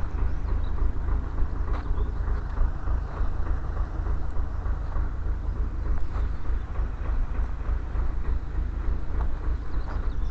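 Motorcycle on the move: a steady engine and road rumble with heavy low wind buffeting on the microphone and occasional small rattles.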